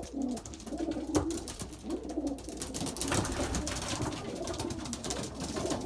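Racing pigeons cooing in a loft, low, wavering coos overlapping throughout, with a few sharp light clicks among them.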